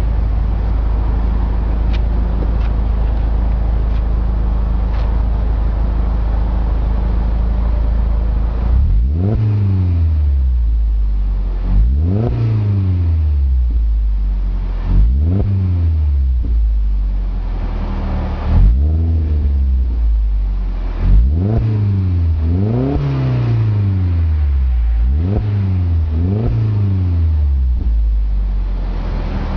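A car engine heard through its exhaust, idling steadily, then revved in a series of quick blips from about nine seconds in, each rising and falling in pitch. This is an exhaust sound test.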